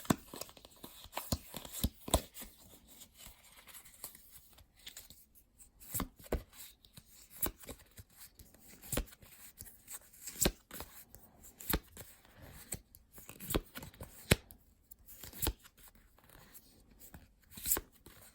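Pokémon trading cards being handled and flipped through: irregular sharp clicks and taps of card against card, one every second or two.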